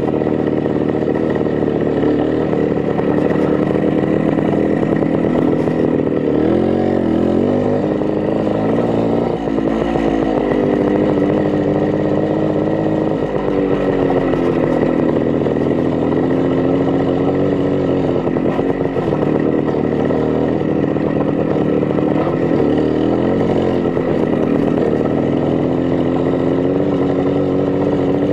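Minsk 125 motorcycle's single-cylinder two-stroke engine running, its pitch rising and falling several times with the throttle.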